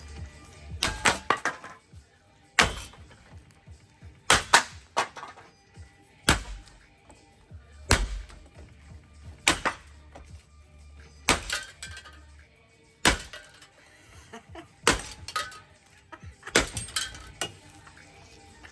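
Ceiling fan being broken apart: sharp clattering, clinking crashes of metal and glass-like parts, in clusters that repeat about every second and three-quarters.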